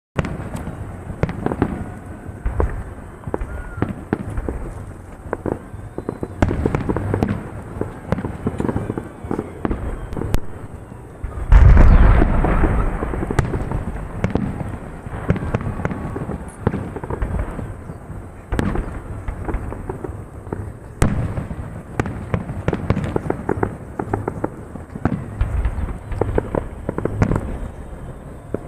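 Fireworks salute going off: a continuous series of shell bursts and crackles, with a loudest barrage of bangs about twelve seconds in.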